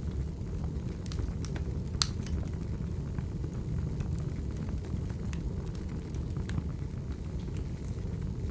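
Crackling wood fire: a steady low rumble of flames with scattered sharp pops and snaps, the loudest snap about two seconds in.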